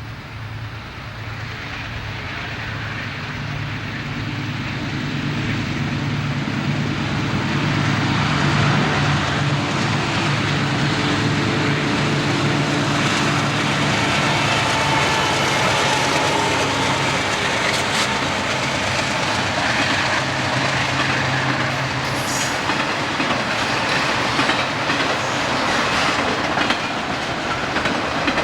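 A diesel-hauled train approaching and passing. The locomotive's engine drone grows louder over the first several seconds, then gives way past the middle to the clickety-clack of wheels over rail joints, with scattered sharp clicks.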